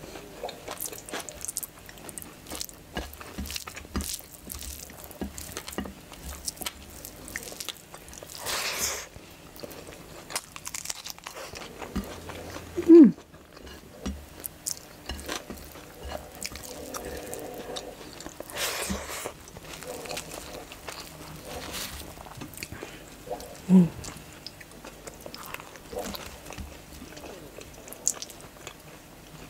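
Close-miked wet chewing and crunching of a meal of mutton curry, chole, rice and naan, with many small lip smacks and mouth clicks. Two short breathy hisses, and twice a brief, loud mouth sound that falls in pitch, once about halfway through and again later on.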